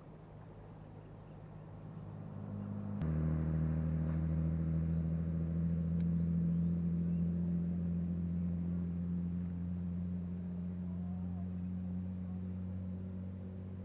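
An engine running at a steady pitch. It grows louder over the first few seconds, steps up suddenly about three seconds in, then slowly fades.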